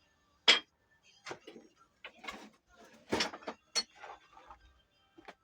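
A series of separate knocks and clinks, about six in all, from tools and metal parts being handled during engine assembly. The sharpest comes about half a second in.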